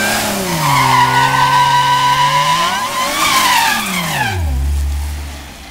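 A Chrysler Crossfire's V6 held at high revs at the drag strip start line with the tyres squealing. About three seconds in, the revs climb briefly, then the engine note falls away as the car pulls off down the track.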